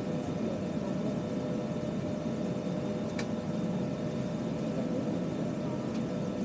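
Steady hum of the air-conditioning and ventilation in an Airbus A320 cabin parked at the gate, with a few constant tones over the even rush of air. A single faint click about three seconds in.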